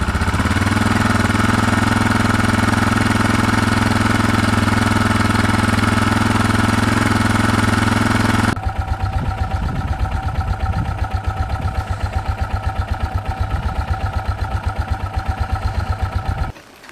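A cold motorcycle engine warming up. It runs steadily at raised revs, then about eight and a half seconds in settles to a slower, pulsing idle. The sound cuts off shortly before the end.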